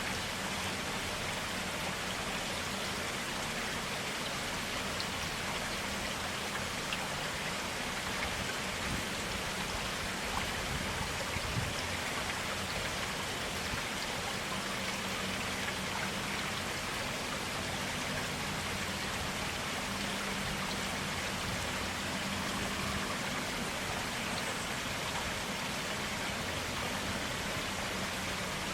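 Water of a forest stream flowing and splashing in a steady, even rush, with a few small drip-like ticks.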